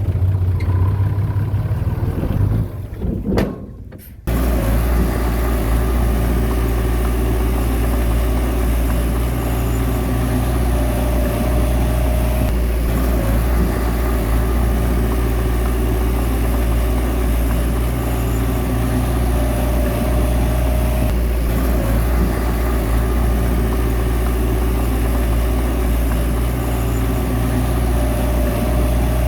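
Bulldozer's diesel engine running steadily under load as it works soil, with a higher whine that comes and goes every several seconds. The sound dips briefly about four seconds in before the steady running resumes.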